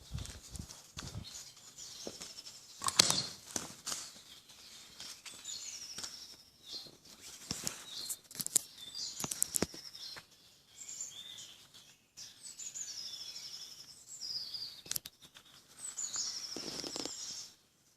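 Small songbirds chirping and singing short trilled phrases, with scattered clicks and crunching knocks, the loudest about three seconds in.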